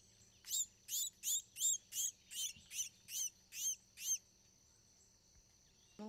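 A bird calling: a run of about eleven sharp, high notes, each sweeping down in pitch, roughly three a second for about three and a half seconds.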